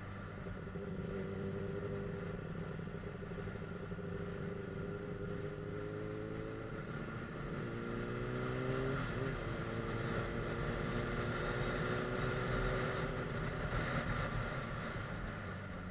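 Suzuki GSF 600 Bandit S's inline-four engine running while the motorcycle is ridden. The engine note rises a few seconds in, changes pitch near the middle, then holds steady.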